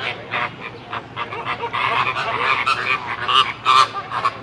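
Birds calling: a quick run of short, repeated calls that overlap one another, loudest a little before the end.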